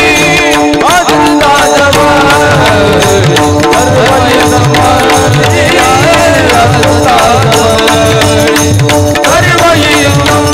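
Devotional kirtan music: voices singing over steady held drone tones, with tabla and pakhawaj drums keeping a steady beat.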